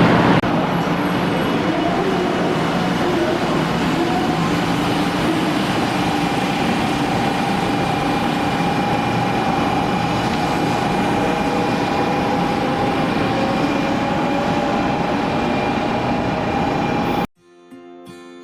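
Cabin running noise of a 500 series Shinkansen at speed: a steady rumble and rushing hiss with a faint steady whine. It cuts off abruptly about a second before the end, giving way to acoustic guitar music.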